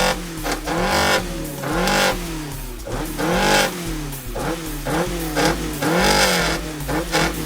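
A car engine being revved in repeated quick blips, about one a second, each rising sharply in pitch and falling back.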